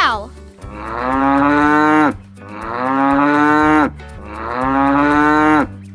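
Cow mooing: three long moos in a row, each about a second and a half, swelling in loudness and dropping off at the end.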